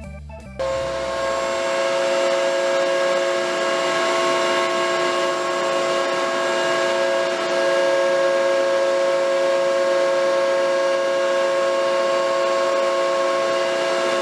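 A motor-driven workshop machine running steadily at constant speed, with a hum of several fixed tones over a rushing noise; it starts abruptly about half a second in, cutting off organ music.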